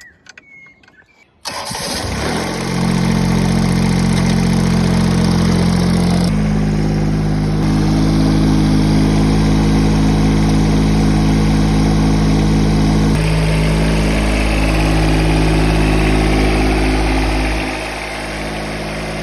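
A small engine starts about a second and a half in and runs steadily. Its speed steps up about six seconds in and drops back lower near the end.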